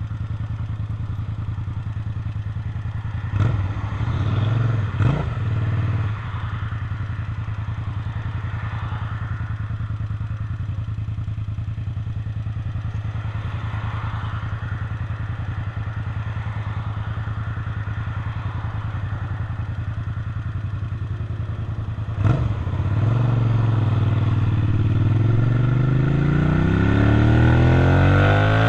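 Suzuki SV650's 90-degree V-twin engine running steadily at low revs, with two quick blips of the throttle early on. From about 22 seconds in it revs up in a rising pull as the bike accelerates, growing louder.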